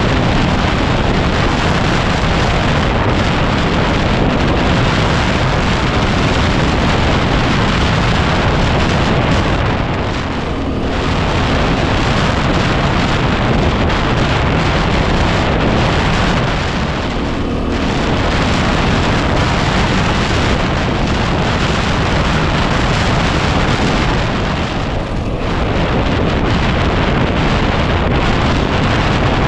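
Heavy wind buffeting on the microphone of a 2010 Yamaha WR250R riding at speed, covering nearly everything. It drops off in three short lulls about seven seconds apart, where the bike's 250 cc single-cylinder engine note briefly shows through.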